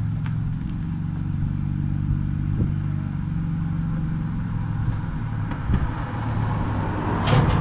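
BMW E46 drift car's engine idling steadily, with a short louder burst near the end.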